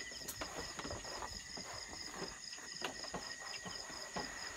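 Insects chirping: a steady high trill with a faster, evenly pulsing chirp above it. Scattered light clicks and knocks sound over it.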